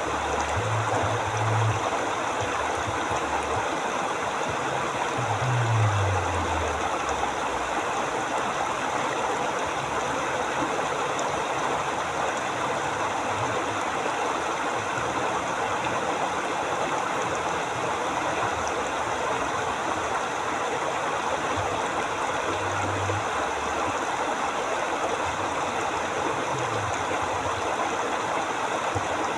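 River water flowing over rocks, a steady rushing. A faint low rumble comes and goes a few times, most clearly about five to seven seconds in, where it slides down in pitch.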